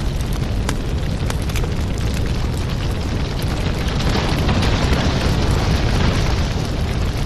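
Wood fire in a fireplace burning with a steady low rumble and scattered sharp crackles and pops; the rush of the flames swells a little louder about two-thirds of the way through.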